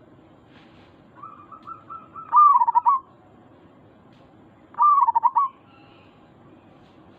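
Zebra dove (perkutut) cooing: a run of soft short notes builds into a loud rolling, stuttering coo about two seconds in, and a second rolling coo follows about five seconds in.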